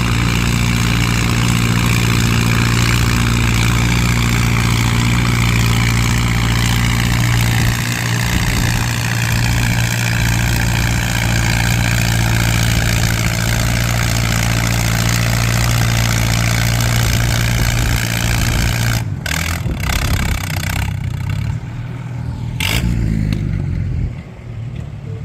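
Antique farm tractor engine running hard under full load, pulling a sled down the track, its pitch sagging a little as the load builds. About 19 seconds in the engine drops off and the sound turns quieter and uneven, with a sharp crack a few seconds later.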